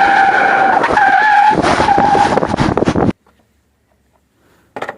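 A toy jeep's built-in electronic sound effect, a recorded engine-and-tyre-skid clip played loud through its small speaker. It holds a steady whine over a hiss, shifts about halfway through, and cuts off abruptly about three seconds in. A brief knock follows near the end.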